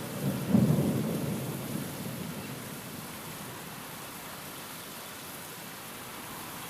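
Steady rain of a thunderstorm, with a clap of thunder about half a second in that rumbles low and fades away over the next two seconds.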